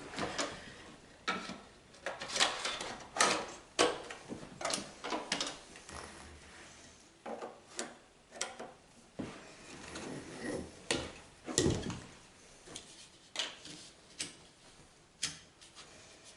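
Irregular clicks and knocks of the Hoover Ranger Senior's above-floor cleaning tools being handled and fitted to the cleaner, with a heavier thump about twelve seconds in.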